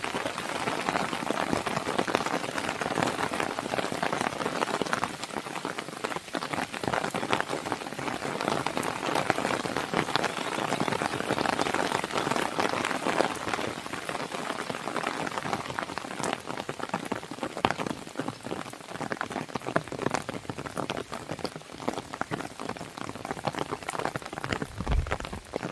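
Steady rain pattering on a window, mixed with the crackle and pops of a wood fire, with a short low thud near the end.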